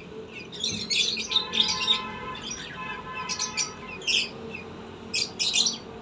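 Birds chirping in many quick, high bursts, with one longer call of several steady tones between about one and three seconds in.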